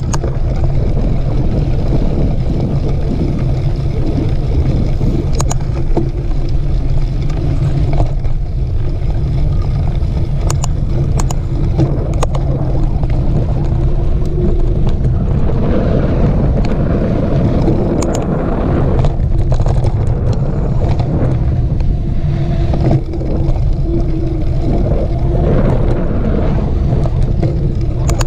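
Mountain bike riding a dirt trail: a steady loud rumble with wind buffeting on the microphone, and a few sharp rattles and clicks from the bike.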